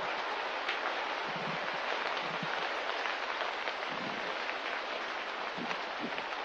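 Light rain or drizzle falling: a steady hiss with scattered drop ticks and a few soft low thumps.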